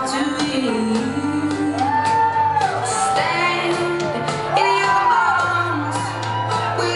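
Music: a woman singing a pop song, her voice arching up and down in long sung phrases over instrumental accompaniment with sustained bass notes.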